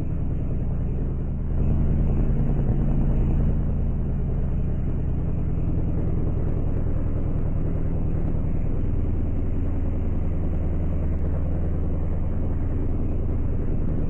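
A motor vehicle running steadily: a low engine hum with a rushing noise over it, a little louder about two seconds in.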